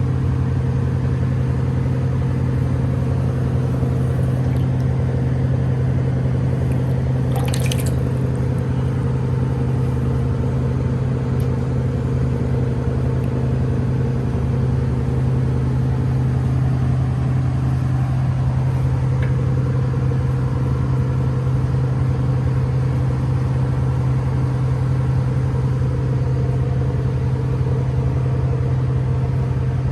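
A motor running steadily at one even pitch, a low constant hum. A brief sharp scrape or click sounds about seven and a half seconds in.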